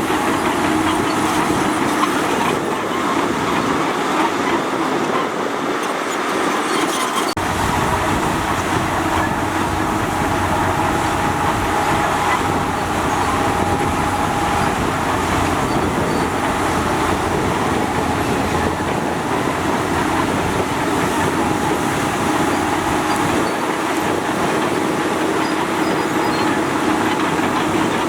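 Heavy diesel earthmoving machinery, such as a bulldozer or dump truck, running steadily. The low rumble grows fuller about seven seconds in.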